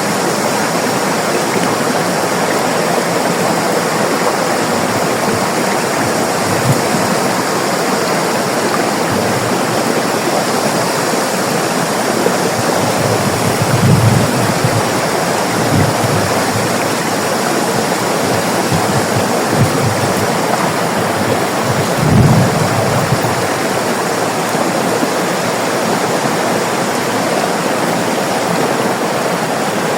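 River water rushing steadily, an even wash of flowing-water noise. A few brief low rumbles rise under it around the middle and about two-thirds of the way through.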